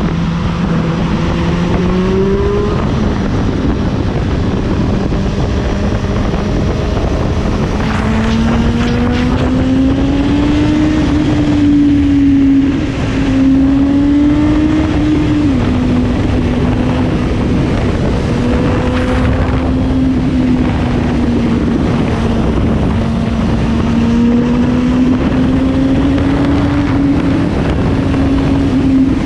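Suzuki GSX-S750 inline-four engine running at road speed under a heavy rush of wind on the microphone. Its pitch climbs as it accelerates, drops once about fifteen seconds in as it shifts up, then holds fairly steady.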